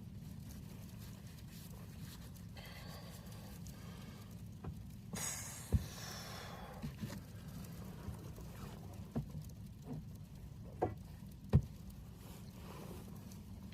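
Scattered small knocks and clicks with a brief rustle about five seconds in, over a low steady hum: handling noise.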